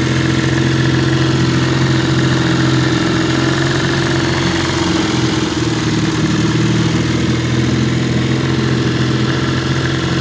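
1953 Elgin 5.5 hp two-cylinder two-stroke outboard motor running steadily and smoothly.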